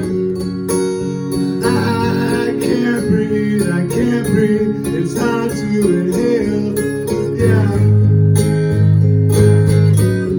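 Live acoustic guitar playing an instrumental passage of a song, with sustained low notes under the strummed chords.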